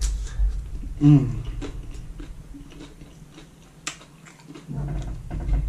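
Close-up chewing of a mouthful of Doritos nachos, with scattered mouth clicks and a brief hum about a second in.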